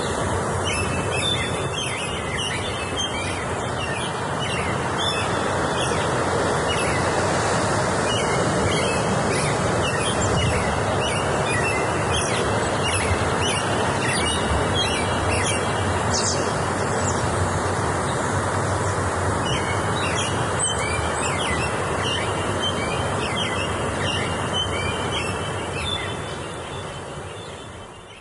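Many small birds chirping and trilling over one another, over a loud, steady rushing noise. Everything fades out near the end.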